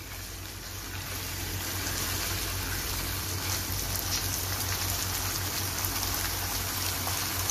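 Beef pieces in a wet masala sizzling in a nonstick wok over a high flame, with occasional spatula scrapes while they are stirred. The sizzle grows louder over the first two seconds and then holds steady as the remaining liquid is fried off.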